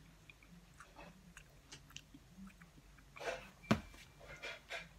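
A person quietly chewing a chunk of hard, crumbly peanut butter candy, with small mouth clicks and one sharper click a little past halfway.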